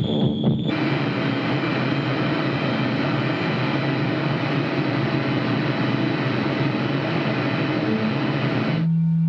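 Harsh noise music: a dense wall of distorted noise that starts less than a second in and shifts to a steady low drone near the end.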